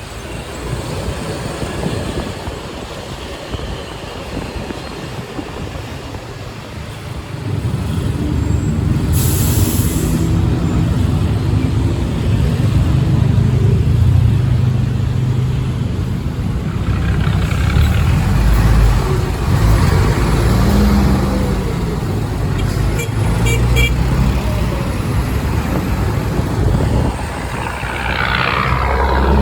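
A motorbike taxi riding through city traffic: steady engine and road noise that grows louder about seven seconds in, with other vehicles around it. A brief hiss comes about nine seconds in, and a pitch rises sharply near the end.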